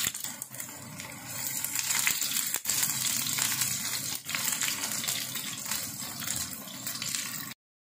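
Shallot pieces frying in hot oil in a nonstick pan, a steady sizzle, with a silicone spatula stirring and scraping them and giving a few sharp clicks. The sound cuts off abruptly near the end.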